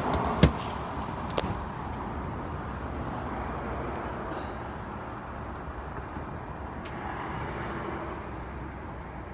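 A car running steadily, with a few sharp clicks and knocks in the first second and a half.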